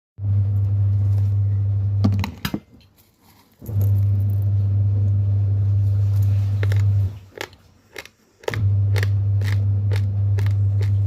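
Raw rice grains crunched between the teeth: a run of sharp cracks, about two to three a second in the later part. A loud low hum comes and goes three times underneath.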